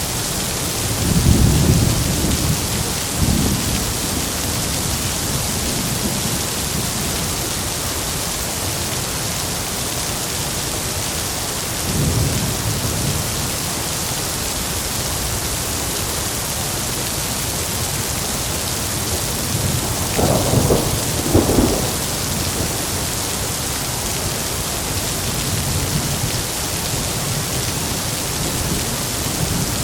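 Heavy rain falling steadily, with thunder rumbling low a few times and two sharper, closer claps about two-thirds of the way through.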